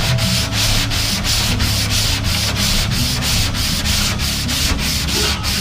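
Sanding Bondo body filler on a car's trunk with coarse 60-grit paper, a steady scratching with even strokes about four a second over a low hum.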